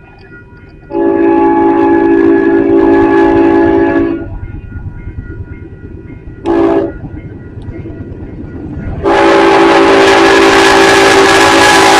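Union Pacific locomotive air horn sounding for a grade crossing: a long blast of about three seconds, a short blast, then another long blast starting near the end, several tones sounding together, over the rumble of the approaching train.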